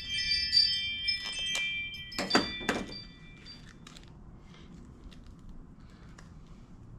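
Small metal parts clinking together and ringing for about three seconds, with two sharp clinks near the end of it; after that, only a few faint ticks.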